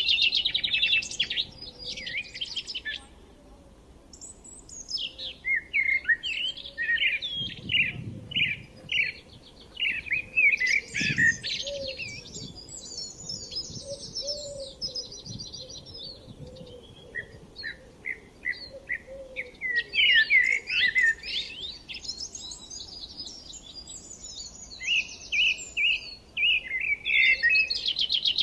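Songbirds chirping and singing in repeated runs of short high notes and fast trills, with a brief lull a few seconds in.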